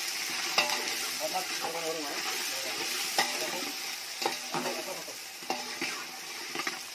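Sliced onions, green chillies and tomatoes sizzling steadily in hot oil in a metal pot while being stirred with a metal spoon. The spoon knocks and scrapes sharply against the pot about five times.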